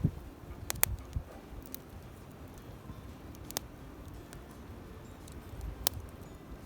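Wood campfire crackling: scattered sharp pops, three of them louder, over a low rumble.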